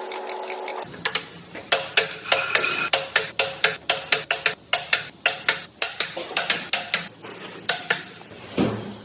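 Metal tools and engine parts clinking and tapping in quick, uneven succession, about three or four strikes a second, some ringing briefly. A short steady tone sounds at the start and cuts off under a second in.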